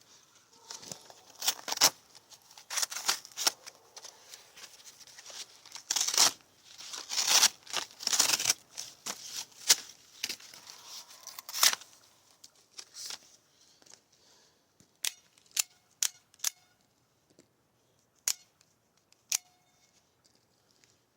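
OTF stiletto knife blade slicing and ripping through cardboard in a run of rough, scraping strokes for about twelve seconds. After that come several sharp, separate snaps, typical of the out-the-front blade being fired out and retracted.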